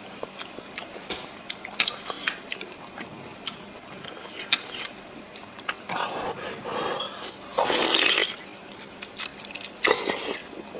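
Close-miked eating sounds of blood sausage being chewed: wet chewing and lip-smacking clicks, with louder breathy mouth sounds twice around the middle and once near the end.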